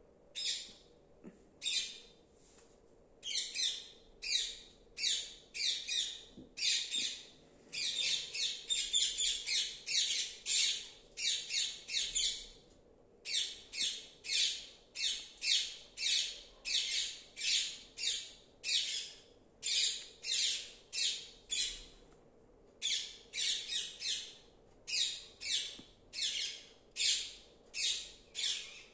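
Parrot giving a long series of short, harsh squawks, about two a second, in bouts broken by a few brief pauses, with a faster run near the middle.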